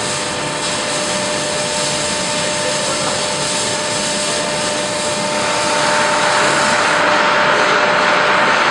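Steady machine noise with a faint constant whine, growing louder about five and a half seconds in.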